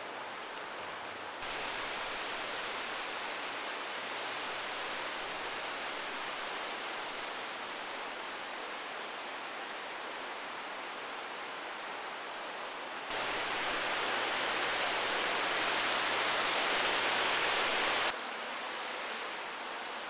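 Heavy rain pouring down, a steady hiss with no separate drops standing out. It jumps abruptly louder about a second and a half in, louder still from about 13 s, then drops back sharply near 18 s.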